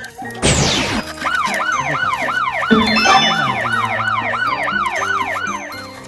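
A siren wailing in a fast rise-and-fall, about three cycles a second, over background music. It is preceded about half a second in by a quick falling whoosh.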